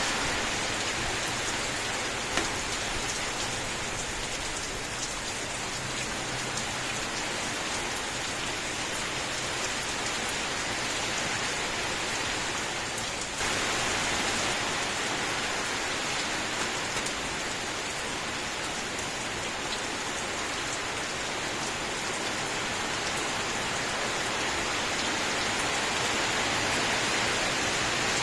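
Steady rain falling: a dense, even hiss with scattered sharp drop ticks, and a brief dip in level about halfway through.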